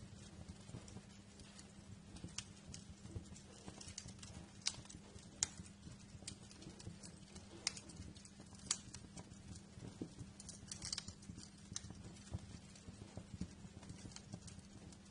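Wood fire crackling in a fireplace: irregular sharp pops and snaps, a few louder ones about five, eight and nine seconds in, over a low steady hum.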